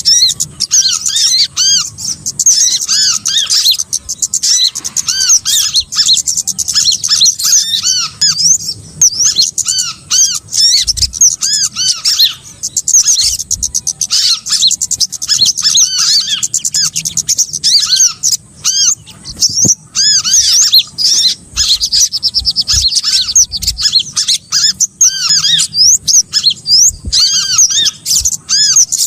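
Bird-lure recording of small songbirds calling: a dense, continuous stream of short, high, arching chirps and twitters from several birds overlapping at different pitches.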